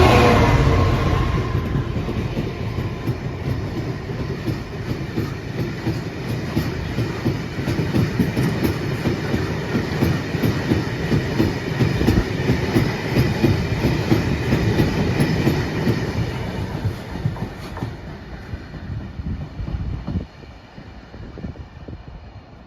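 Freight train of alumina wagons hauled by a Class 66 diesel locomotive passing close by. It is loudest at the very start, then wagon wheels clatter steadily over the rail joints until the end of the train passes about twenty seconds in, when the sound drops away.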